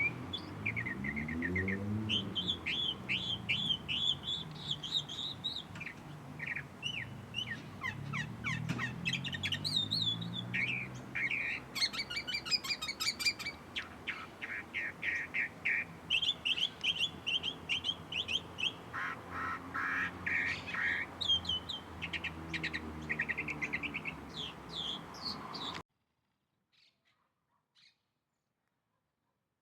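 Many small birds chirping and twittering at once, with rapid, repeated high calls overlapping one another. The sound cuts off abruptly near the end.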